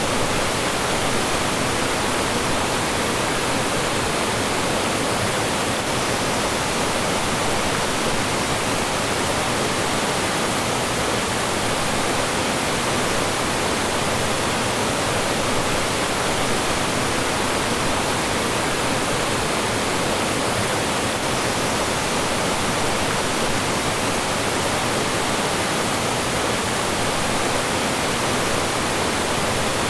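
Mountain stream flowing and tumbling over rocks in a steady, unbroken rush.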